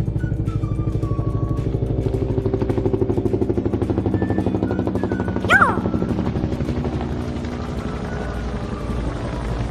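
A small motor running steadily with a rapid even pulse, with a short high squeal about five and a half seconds in.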